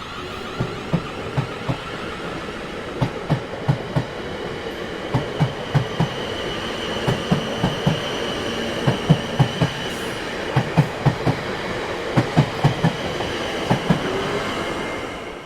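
Train rolling past, its wheels clacking over rail joints in quick groups of two to four, over a steady rumble and a thin high whine. The sound fades out near the end.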